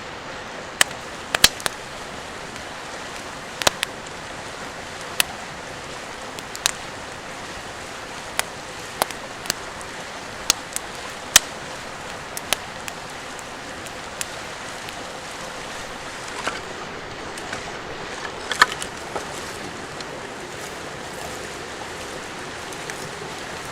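Steady rushing of a flowing river, with scattered sharp clicks and pops at irregular intervals over it.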